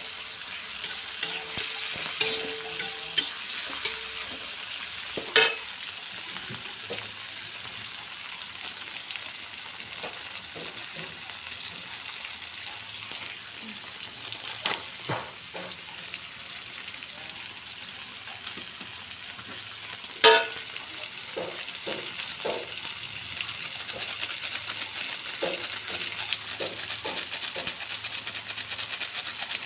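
Chopped chillies, tomato and seasoning sizzling steadily in hot oil in a metal wok while a metal spoon stirs them. The spoon clinks and scrapes against the pan now and then, loudest about five seconds and twenty seconds in.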